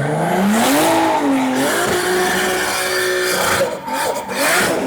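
BMW E92 drift car with a swapped-in Toyota 2JZ straight-six, revving hard while drifting, its tyres squealing. The revs climb steeply in the first second, then hold high and waver, with a short dip near the end.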